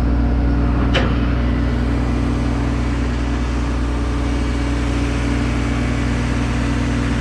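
Engine idling steadily, with a short sharp click about a second in.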